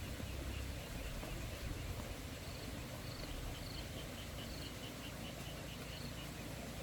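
Repeated short, high chirps from a small animal, about four a second in the middle of the stretch, over a steady low rumble and hiss of outdoor background noise.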